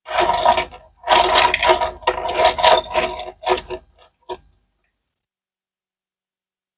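Rattling, ratchet-like mechanical clicking in two bursts, a short one and then a longer one of about three seconds, ending about two-thirds of the way through.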